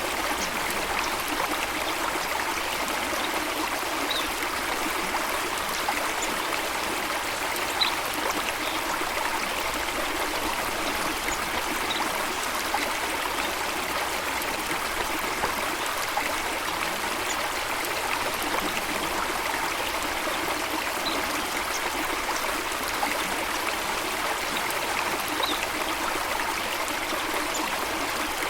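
Steady rush of flowing water, like a stream or small waterfall, with faint brief bird chirps every few seconds.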